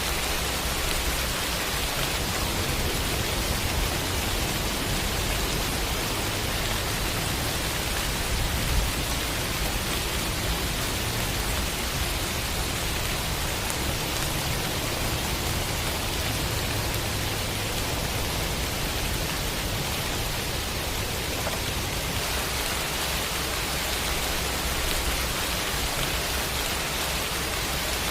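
Steady rain sound effect: an even hiss of rainfall with a low rumble underneath.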